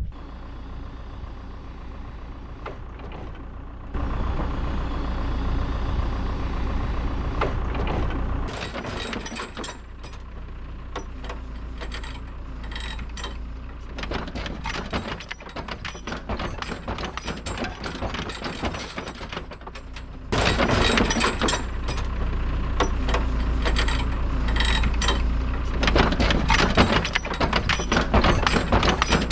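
A loader's diesel engine running, its level stepping up about four seconds in and again about twenty seconds in, with a dense patter of clicks and knocks through much of it.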